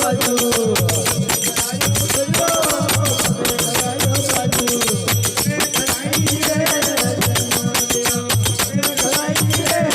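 Instrumental passage of a Marwari folk devotional bhajan: a wavering melody line over rapid, jingling high percussion and a steady low drum beat.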